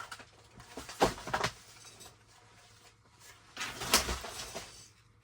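Handling noise from craft supplies being moved and searched through: two short bursts of clatter and knocks, one about a second in and a louder one at about four seconds.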